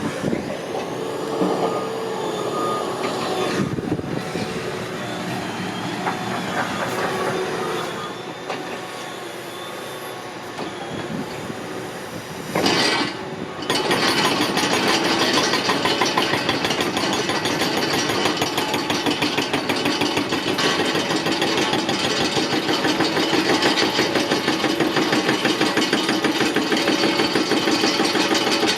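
Heavy demolition excavators working concrete footings, their engines running under load. The first half is scraping and creaking of concrete and steel. From about halfway a fast, steady mechanical rattle takes over and lasts to the end.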